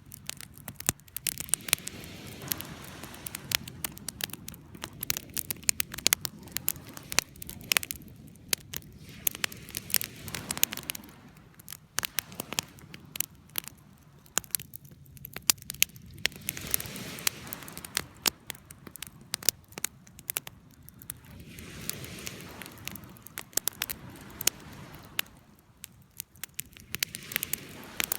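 Campfire burning: a steady run of sharp wood crackles and pops over a soft hiss of flame that swells and fades every few seconds.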